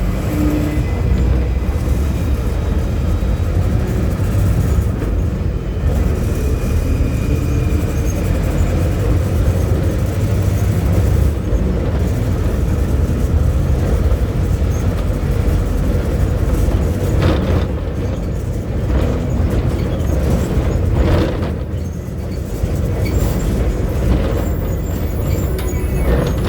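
The engine of a VW 17-230 OD city bus running steadily as it drives, a strong low drone heard from inside the cabin. A few short hissing or rattling noises come in between about 17 and 21 seconds in.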